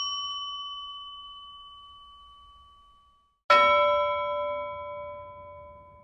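Two struck bell-like dings, each ringing on and fading away over a few seconds. The first is already sounding and dies out after about three seconds. The second, struck about three and a half seconds in, is lower and fuller.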